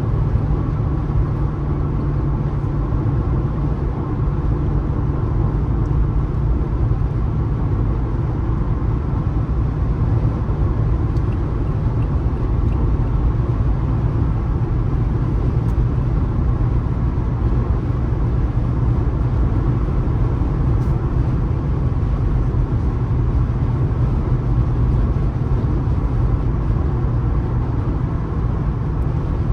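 Car driving at road speed: a steady low rumble of tyre, road and engine noise that does not change.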